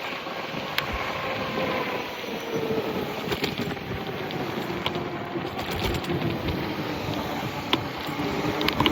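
Electric bike ridden at about 42 mph: steady rushing wind on the microphone and tyre noise, with a faint whine that drifts slowly down in pitch and back up near the end, and a few sharp clicks.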